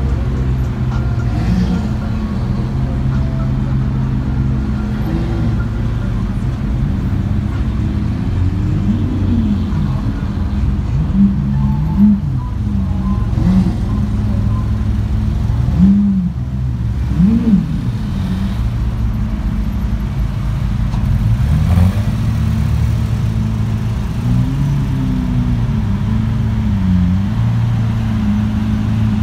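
Idling sports-car engines in a slow-moving line, with several short throttle blips rising and falling in pitch through the middle.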